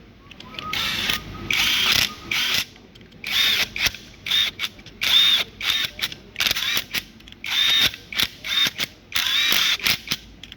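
A handheld power tool run in about a dozen short bursts, its motor whining and stopping again and again.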